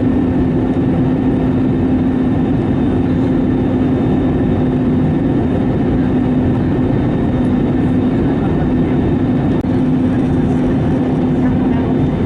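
Steady jet airliner cabin noise inside an Airbus A321neo on approach: engine and airflow rumble with a constant low hum.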